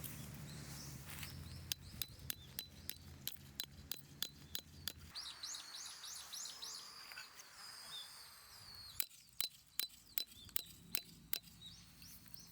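Wild songbird singing a short run of quick high chirps in the middle, among runs of sharp, rapid clicks, about four a second, before and after it. A low steady hum underneath stops about five seconds in.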